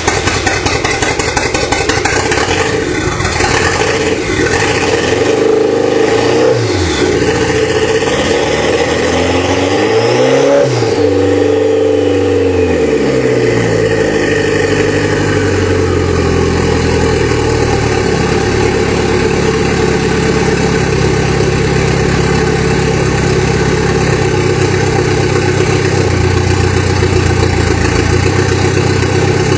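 Nissan Pulsar GTI-R's SR20DET turbo four-cylinder running with no exhaust fitted, just after its first start in the car. The revs rise and fall twice in the first half, then it settles to a steady idle.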